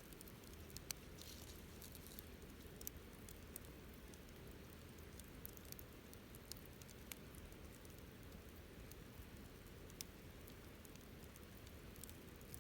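Wood fire crackling faintly: irregular sharp pops and snaps over a low steady hiss, with the loudest snaps about a second in and again near ten seconds.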